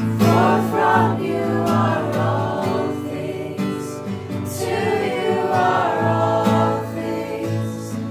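Christian worship music: voices singing long held phrases over a steady instrumental backing.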